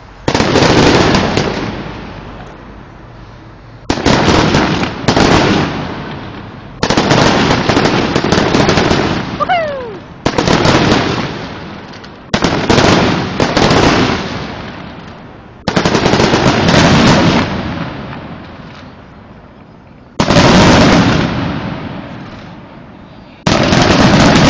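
Fireworks exploding close by: about a dozen loud booms, one every one to four seconds, each followed by crackling that fades over a couple of seconds. A short falling whistle sounds near the middle.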